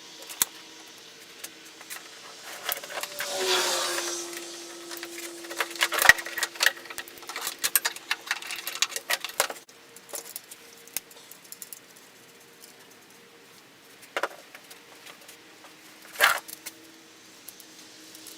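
Scattered clicks, taps and light metallic rattling of small parts and tools being handled while assembling a pressure washer, with a brief scraping stretch about three seconds in, over a faint steady hum.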